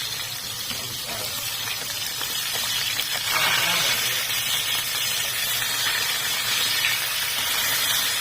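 Tilapia frying in hot oil: a steady sizzle that grows louder about three seconds in.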